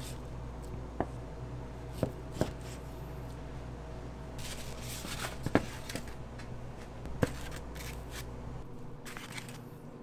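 Scattered light knocks and clicks with a couple of short rustling scrapes, as of objects being handled, over a steady low hum that stops near the end.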